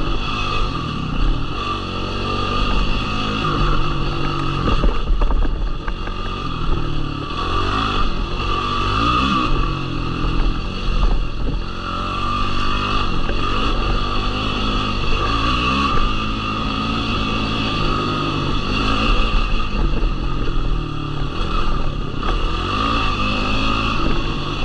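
Yamaha YFZ450R quad's single-cylinder four-stroke engine under way on a trail, its revs rising and falling again and again over a constant noise.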